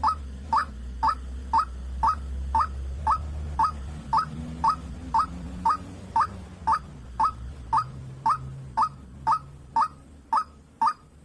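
White-breasted waterhen (dahuk) calling: a short, sharp note repeated very evenly about twice a second, with a low hum underneath in the first half.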